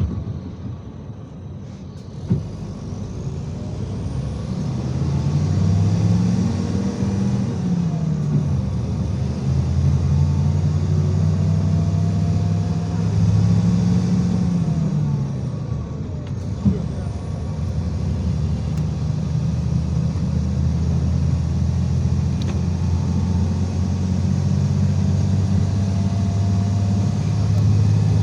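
IVECO Crossway 13M PRO city bus diesel engine running under way, heard on board: the engine note rises in steps as the bus accelerates, falls back as it slows around the middle, then rises again. Two sharp knocks, one about two seconds in and one about seventeen seconds in.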